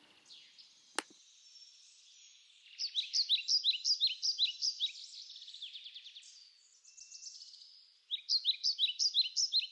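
A small songbird singing: runs of short, high chirps repeated several times a second, in two phrases with a pause between. A single sharp click comes about a second in.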